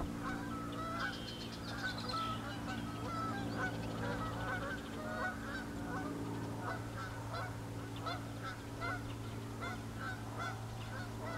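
Birds calling: many short calls, repeating several times a second, over a steady low drone.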